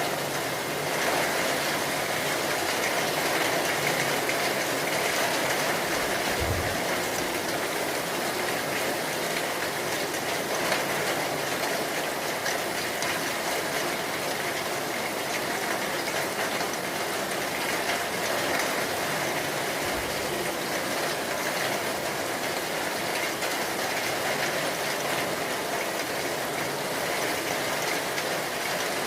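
Heavy rain falling steadily, an even hiss of rain with no let-up.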